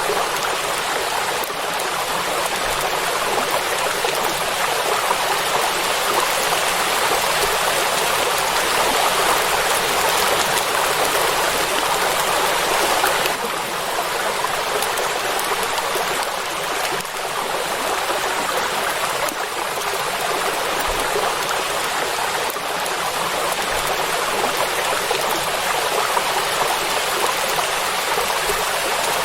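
Steady heavy rain falling on the surface of a lake: a dense, even hiss of drops.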